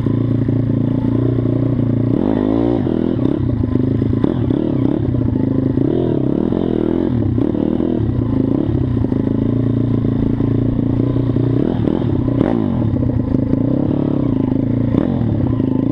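Pit bike's single-cylinder engine running hard, its pitch rising and falling with the throttle, with a sharp rev-up about two and a half seconds in.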